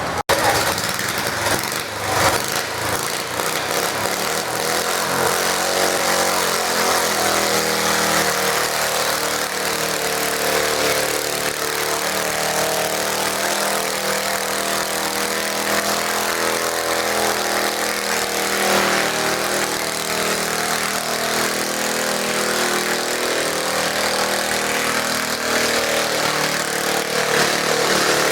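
Garden tractor engine running steadily for a long stretch, its pitch rising and falling slightly, with a few knocks in the first couple of seconds.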